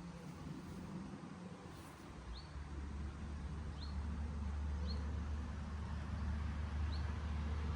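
Austin-Healey BJ7's straight-six engine running with a low, steady drone that grows louder about two and a half seconds in. A bird chirps briefly several times over it.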